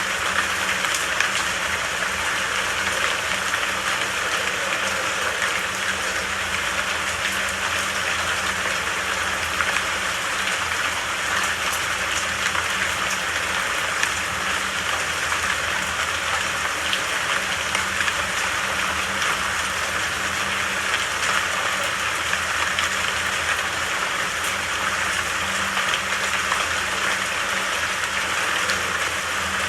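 Steady rain falling, an even hiss with fine pattering drops. A faint low hum runs underneath.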